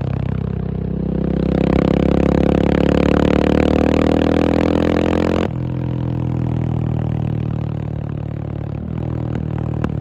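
KTM 690 SMC R's single-cylinder engine pulling under throttle, its pitch climbing for about four seconds. About five and a half seconds in the revs cut sharply, and the engine settles at a lower, steady pitch.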